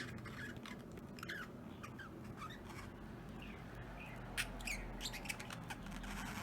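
Budgerigars making soft, faint chirps, with a few light clicks about four and a half seconds in.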